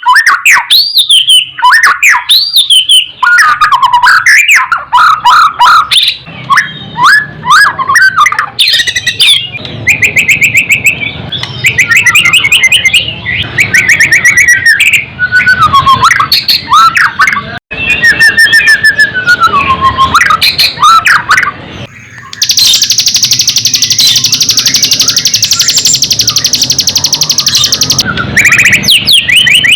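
White-rumped shama singing a loud, varied song of sweeping whistled phrases and fast trills, with a harsh, rapid buzzing rattle held for about five seconds near the end.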